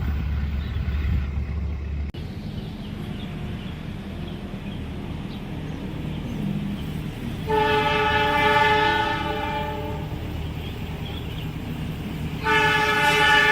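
Train horn of an Indonesian diesel locomotive sounding two long blasts, the first about seven and a half seconds in and the second near the end, over a steady low rumble of the approaching train.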